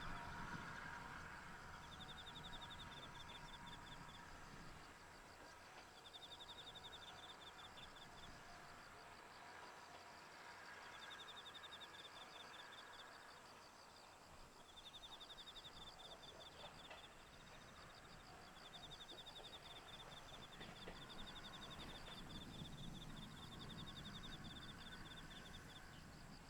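Faint outdoor ambience with insects chirping: high, rapidly pulsed trills lasting a second or two, repeated every few seconds, over a fainter steady higher trill and a low background rumble.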